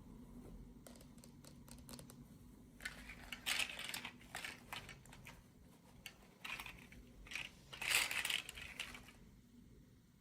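Toy packaging crinkling as it is handled, in two spells of about two seconds each, with a few faint light clicks before the first.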